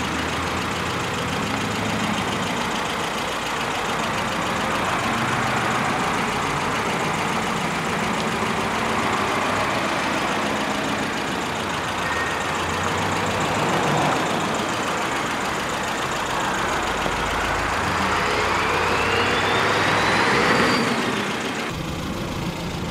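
Datsun on-Do's 1.6-litre inline-four engine running at a steady idle. Near the end a rising whine climbs for a few seconds.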